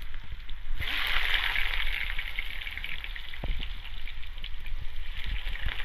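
Potatoes frying in hot oil: a dense crackling sizzle that starts abruptly about a second in and keeps going, with a few low knocks.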